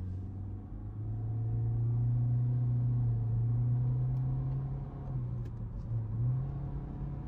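Engine and road drone inside the cabin of a 2024 Honda Civic Sport under way: a steady low hum that swells about a second in, holds, then eases and dips near the end.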